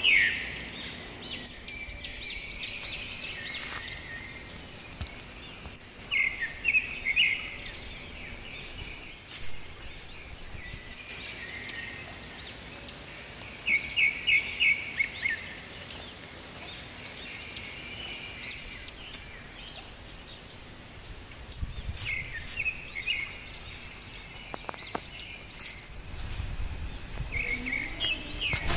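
Birds calling outdoors: short clusters of quick chirps every few seconds, the clearest a run of about half a dozen notes midway, over a steady background hiss.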